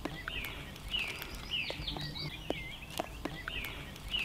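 Small birds calling: short swooping phrases repeated every half second or so, with scattered light clicks under them.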